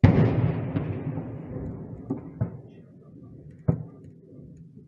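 A loud explosion goes off suddenly and rumbles away over several seconds, with three sharper bangs about two, two and a half and nearly four seconds in.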